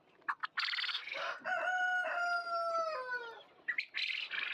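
A rooster crows once: a single long call of about two seconds that falls slightly in pitch at its end. Short bursts of bird chatter and clicks come before and after it.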